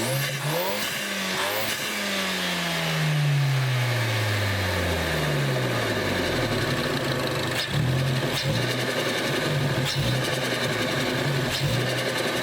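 Ford Focus ST's turbocharged engine revving, with a high turbo whistle rising near the start. The revs then fall steadily over about four seconds, followed by a few shorter rises and drops in engine speed.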